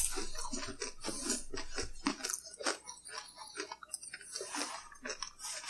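People chewing food, with many short, irregular crunches and clicks.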